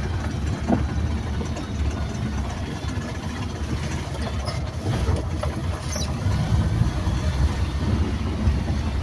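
A steady low engine rumble, as of a running vehicle.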